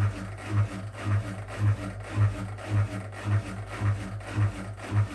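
Whirlpool WWDC 7440 washing machine's carbon-brush motor turning the drum at low speed, its hum swelling in a steady rhythm of about two pulses a second.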